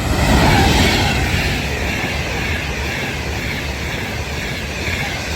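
Class 390 Pendolino electric train passing through at speed: a loud, steady rush of wheels on rail and air. It is loudest about half a second in.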